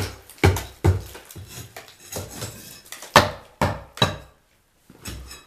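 Several sharp knocks and clatters at irregular intervals, the loudest about three seconds in. The sound drops to dead silence for about half a second near the end.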